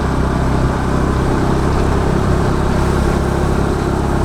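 Scooter running steadily while riding, a constant engine and road noise.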